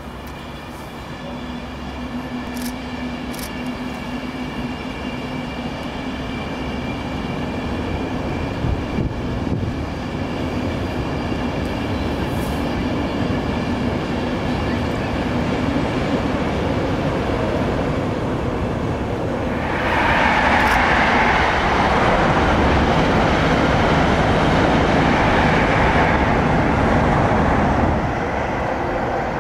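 Passenger train crossing a steel truss railway bridge, growing steadily louder as it approaches with a steady tone over its rumble. About two-thirds of the way through it becomes a louder rushing rumble, which cuts off abruptly near the end.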